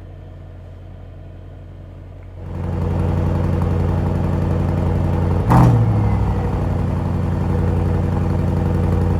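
Mercedes-AMG S63's 4.0-litre twin-turbo V8 running at idle, getting much louder about two and a half seconds in, with one brief sharp burst about five and a half seconds in.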